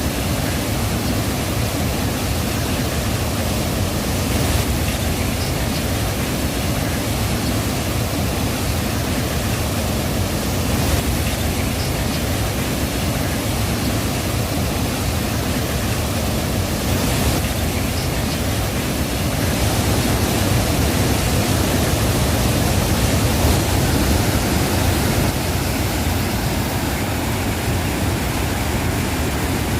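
Steady, loud rush of water pouring over an overflowing dam as a waterfall.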